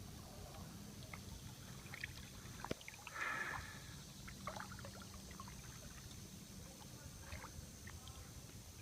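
Faint splashing and sloshing of floodwater, moved in small irregular bursts, with the loudest splash about three seconds in, over a low steady background rumble.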